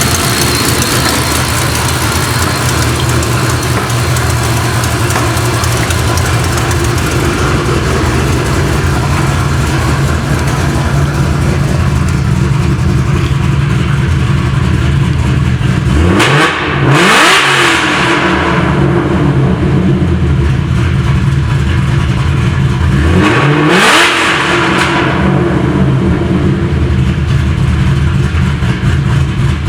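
Supercharged 5.4-litre V8 from a 2010 Mustang GT500 idling steadily, blipped twice to a short rev about seven seconds apart, each rising and falling back to idle.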